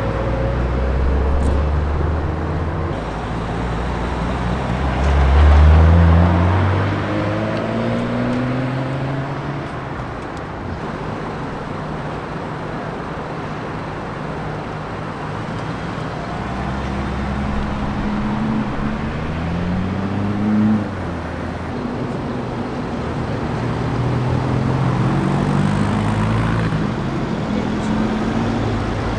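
Several car engines accelerating one after another, each rising in pitch as it revs up. The deepest, loudest run comes about five seconds in.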